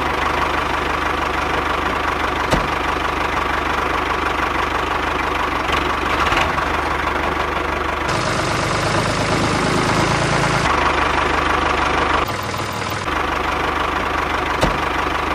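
A mini tractor's engine running steadily at idle. Its tone changes abruptly a few times, about eight seconds in and again near ten and twelve seconds. Two sharp clicks come through, one early and one near the end.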